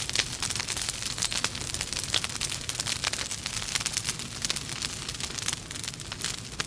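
Logs burning in a fireplace, crackling continuously with many quick, sharp crackles over a low hiss.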